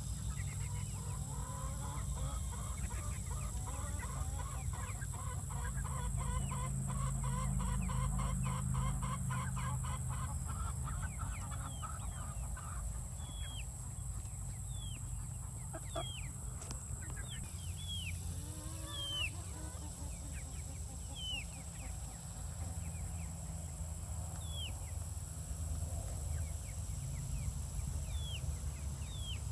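A flock of chickens clucking. A run of rapid clucks comes in the first third, then a few longer calls, and from about the middle on many short, high, falling chirps. A steady low rumble runs underneath.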